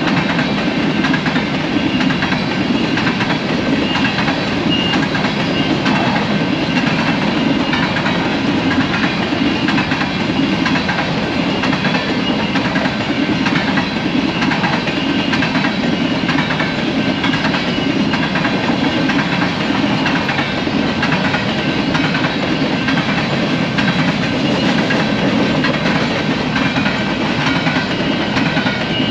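Train cars rolling past at a grade crossing: steady, loud wheel-on-rail noise with clickety-clack, unbroken throughout.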